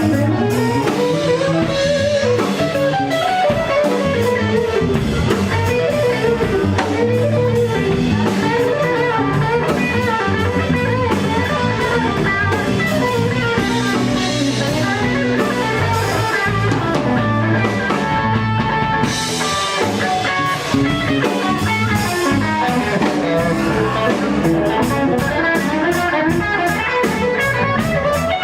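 Blues band playing an instrumental passage: electric guitar over bass and drum kit with a steady beat, no vocals.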